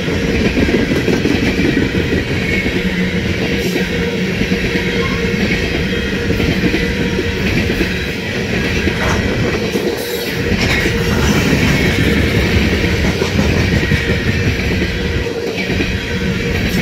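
Open-top hopper cars of a freight train rolling past close by: a steady rumble of steel wheels on rail, with clacking as the wheels run over the rail joints.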